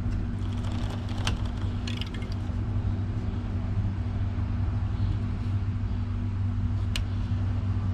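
Steady drone of constant road traffic from a main road close by, with a few sharp clicks over it.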